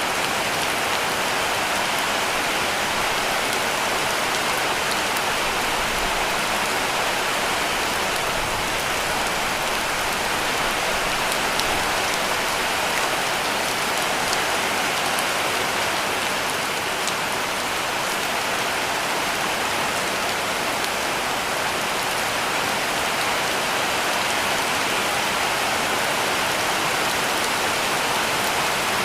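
Heavy rain falling on a cabin roof, a steady, even hiss with faint ticks of individual drops.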